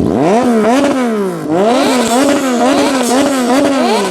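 A car engine revved hard through a loud exhaust. The revs climb fast and bounce up and down repeatedly, drop about a second and a half in, then climb and bounce again, with sharp pops among them.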